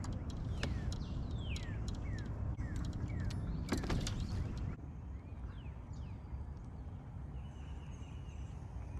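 A bird calling in a series of short falling whistled notes, with a few sharp clicks, the loudest about four seconds in, over a low rumble of wind on the microphone that eases after about five seconds.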